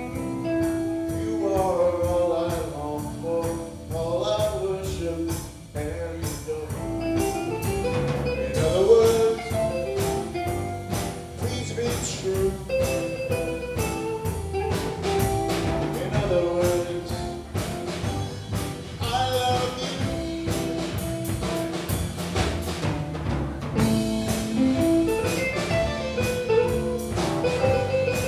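A band playing an instrumental passage: a drum kit keeps a steady beat under a pitched lead melody and accompanying chords.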